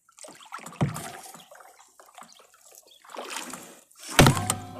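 Kayak being moved in the water, with splashing and knocks: one sharp knock about a second in and a louder one near the end.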